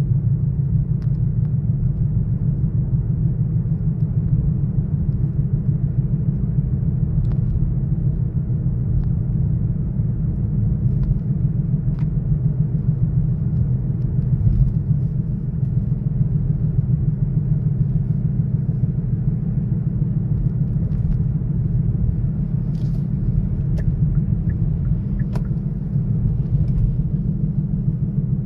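Kia Sorento's 2.0-litre gasoline engine running at a steady speed: a continuous low rumble with a fine, even pulsing and no revving.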